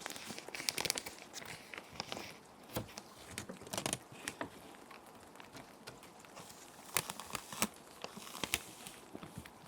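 Plastic sheet protectors crinkling and rustling as paper sheets are slid in and handled, in irregular crackles and clicks, over a steady hiss of background rain.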